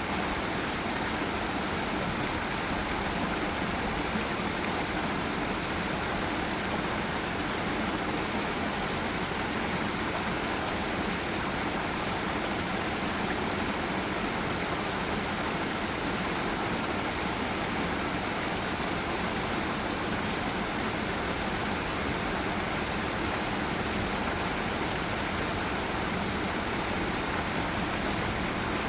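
Forest river rushing over a waterfall, a steady, even roar of falling and flowing water.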